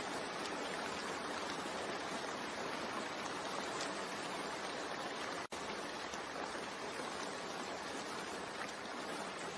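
Steady rain ambience, an even hiss of falling rain, broken by a momentary dropout about halfway through.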